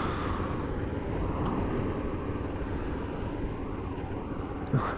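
A Kawasaki GPZ500 parallel-twin motorcycle running on the move, under a steady rush of wind and road noise, with a short knock about four and a half seconds in.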